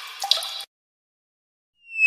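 Water dripping and trickling from a tap, with sharp drip plinks, cutting off abruptly under a second in. After a gap of silence, a high whistle tone starts falling in pitch near the end.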